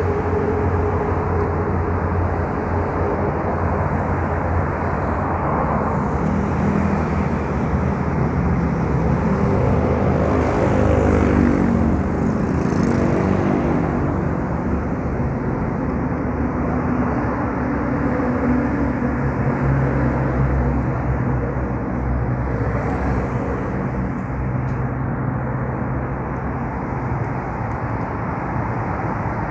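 Yamaha Mio Soul scooter's small single-cylinder four-stroke engine running under way, with road and wind noise. An engine pitch rises and falls about ten to thirteen seconds in.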